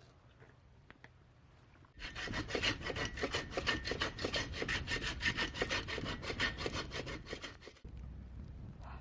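Hand salt grinder being twisted: a fast, even rasping of about seven strokes a second that starts about two seconds in and stops abruptly near the end.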